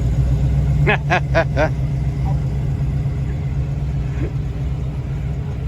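Fox-body Mustang engine running with a low, steady rumble as the car drives away. About a second in, four short, quick honking calls with bending pitch cut through.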